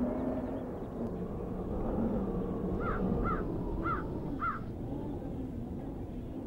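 A bird calls four times in quick succession about halfway through, short arched notes over a steady low rumble.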